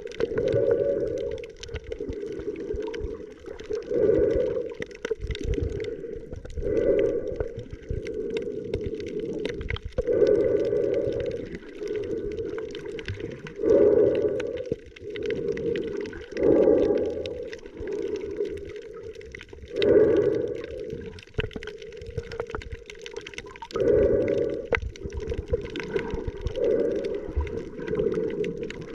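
Muffled underwater sound picked up by a camera in the sea while snorkeling: low sloshing and gurgling of water that swells and fades every three seconds or so.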